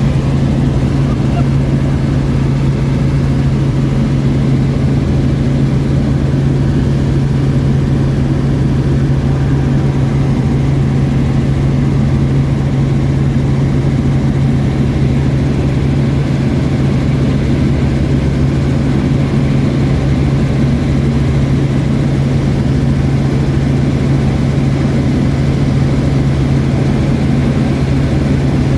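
Helicopter in flight heard from inside the cabin: a loud, steady drone with a strong low hum that does not change.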